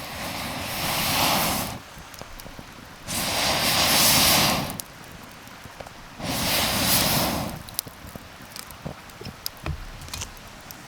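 Three long blows of air into a campfire, each about a second and a half, with the fire crackling in the quieter gaps between them.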